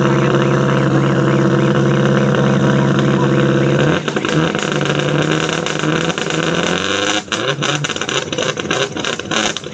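Rally car engine holding a steady high pitch for about four seconds, then revving up and down, with a run of sharp pops and clicks near the end.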